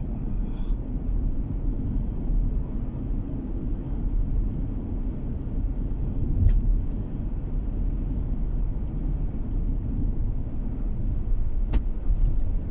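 Car driving along a road, its steady low road-and-engine rumble heard from inside the cabin. One sharp click comes about six and a half seconds in and another near the end.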